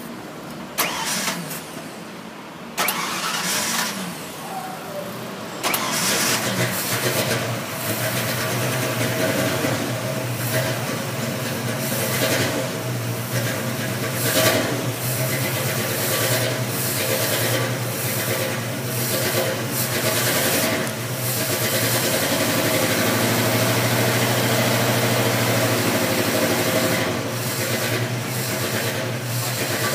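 A 1967 Ford Mustang's carbureted V8 engine being started. After a few seconds of uneven starting attempts it catches about five and a half seconds in, then keeps running steadily with a few brief rises in revs.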